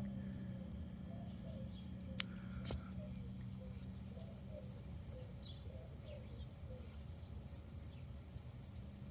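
Hummingbird squeaking: a run of very high, thin, scratchy squeak phrases starting about four seconds in and repeating in short bursts until near the end.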